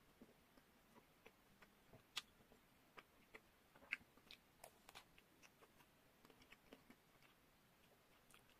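Biting and chewing a chocolate-coated ice cream bar studded with nuts: scattered sharp crackles and clicks of the chocolate shell, the loudest about two and four seconds in.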